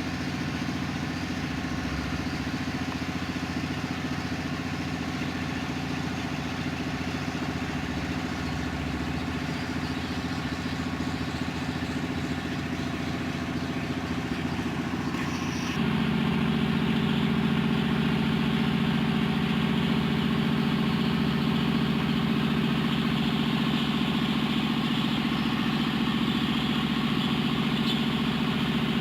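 Mitsubishi Strada L200 engine idling steadily under repair. About halfway through, the engine note steps up, becoming louder and fuller, and holds there.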